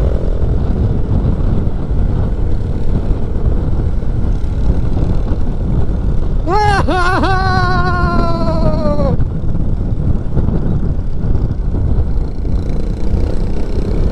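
Steady noise of a motorcycle on the move at cruising speed, heavy in the low end. About halfway through, a drawn-out pitched sound, dipping twice at its start and then slowly falling, lasts about two and a half seconds and cuts off.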